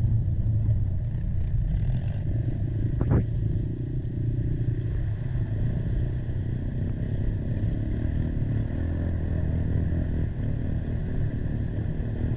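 Quad engine running steadily under way, with a single sharp knock about three seconds in.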